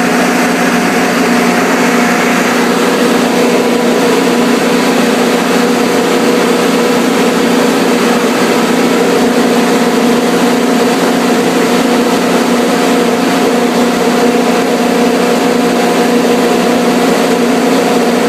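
Kohler 150 standby generator engine running steadily at constant speed under its test cycle, an even, unchanging engine drone.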